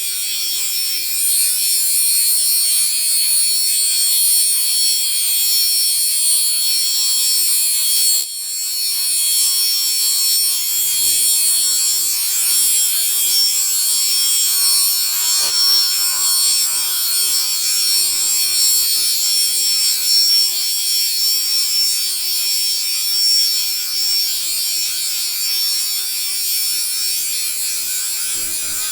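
A dense, continuous chorus of many high-pitched steady tones and chirps, overlapping without a break except for a brief dip about eight seconds in; the uploader says it is not birds and cannot explain it.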